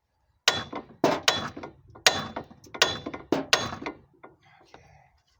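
About eight sharp metal-on-metal strikes, some in quick pairs, each leaving a brief metallic ring: hammer blows on the steel front-suspension parts of a 2011 Ford Focus. They stop about four seconds in.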